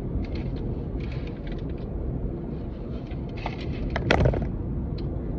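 Steady low rumble inside a car's cabin, typical of the engine idling, with a few small clicks and a short, sharp noise about four seconds in.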